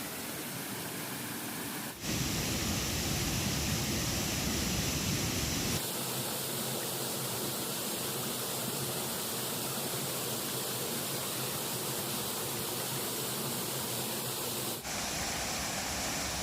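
Steady rushing of a flowing river, an even noise whose tone shifts abruptly about 2, 6 and 15 seconds in.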